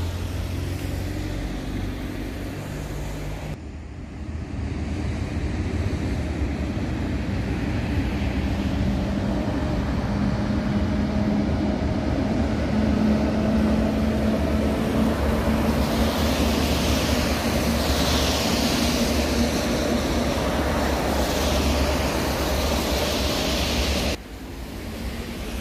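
Electric train running along the tracks: a steady rumble with a humming tone, and a hiss of running noise that swells in the middle before stopping abruptly near the end. The first few seconds hold a different, steady vehicle noise.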